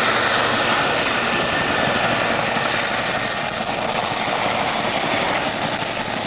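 Military helicopters flying close by: a steady, loud rotor and turbine noise with a thin high whine over it.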